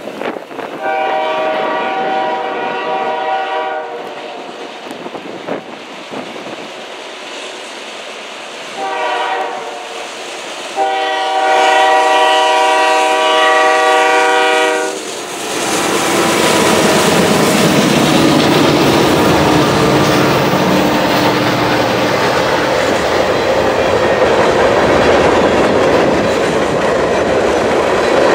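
A freight locomotive's air horn sounds three times, a long blast, a short one and a longer one, over wind noise. From about halfway the train reaches the microphone: the locomotives' diesel engines run loud as they pass, and the freight cars follow, wheels clattering over the rail joints.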